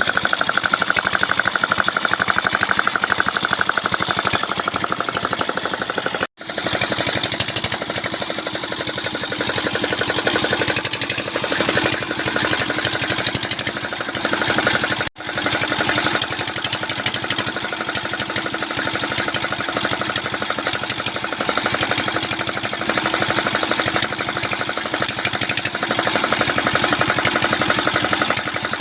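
Small 6 hp diesel engine running steadily with a rapid, even knocking beat. The sound cuts out briefly twice, about six seconds in and again about fifteen seconds in.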